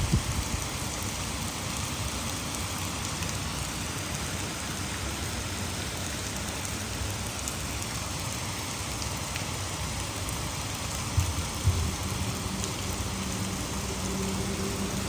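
Heavy rain falling steadily, mixed with the rush of water over a hydroelectric dam, as one even hiss. Two brief low thumps about eleven seconds in, and a faint low hum comes in near the end.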